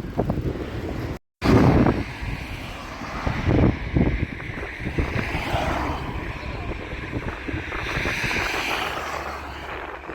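Strong wind buffeting the action camera's microphone during a road bike ride, a gusty low rumble that drops out completely for a moment about a second in.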